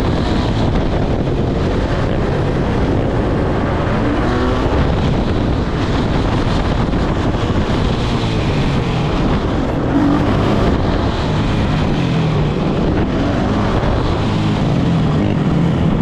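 Motor vehicle running steadily while moving, with wind buffeting the microphone.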